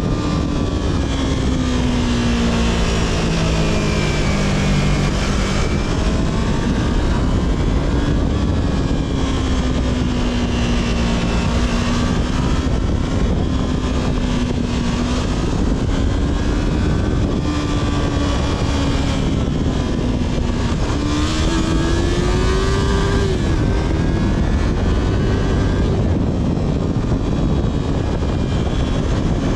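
Yamaha R3's parallel-twin engine through its stock exhaust, running at speed under heavy wind rush. The engine note wavers with the throttle and rises about two-thirds of the way through, then drops back.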